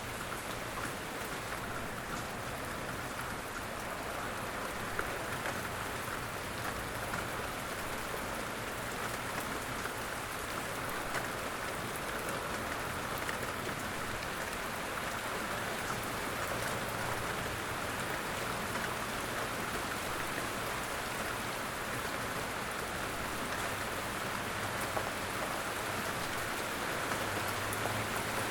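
Steady light rain falling in woodland: an even hiss of rainfall with many small individual drops pattering through it.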